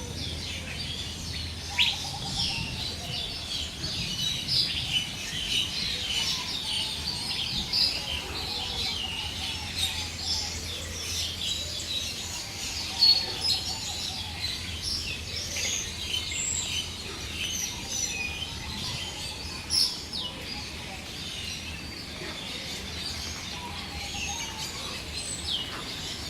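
Many birds chirping and calling at once: a dense chorus of short, high calls overlapping throughout, with a few louder calls standing out.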